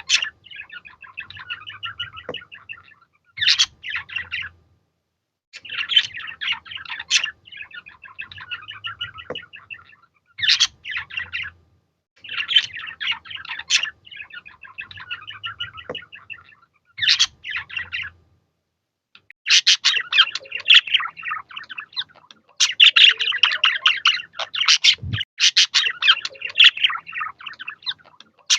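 Budgerigars chattering and warbling in bursts of a few seconds with short pauses between them, turning into a denser, unbroken chatter for the last third.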